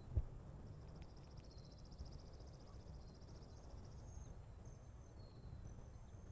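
Insects buzzing steadily in open country, with a rapid, evenly pulsed trill over the first few seconds and a few short high chirps, over a low wind rumble. A single thump just after the start is the loudest sound.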